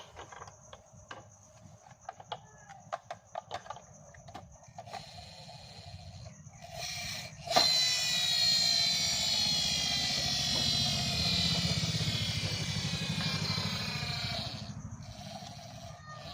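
Small electric toy motor starting suddenly with a click about halfway through and running at high speed, its whine slowly falling in pitch before fading near the end. Light clicks of the toy being handled come before it.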